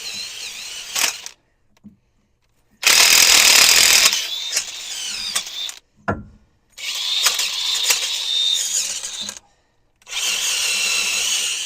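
Wire brush on a power drill spinning against the rusty, corroded bearing seat to scrub it back to clean metal. It runs in about four stretches of a few seconds each, with a wavering whine, split by short silences.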